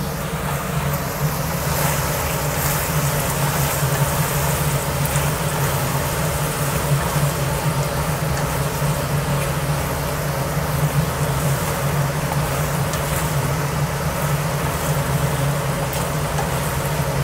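Prawn sambal sizzling in a wok as a spatula stirs and scrapes through it, over a steady low kitchen hum.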